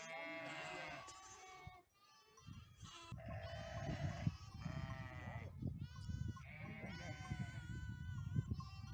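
Chios sheep and lambs bleating, many wavering calls overlapping one another, with a low rumbling noise underneath from about two seconds in.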